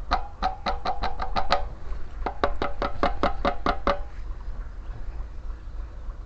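Two quick runs of sharp, ringing clicks, about five or six a second, with a pause between them, over a steady low rumble.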